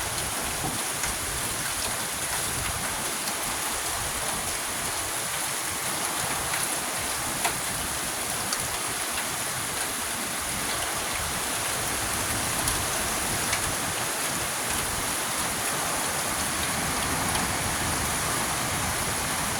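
Hurricane rain pouring steadily, with wind, a continuous hiss with a few faint ticks of drops striking nearby surfaces.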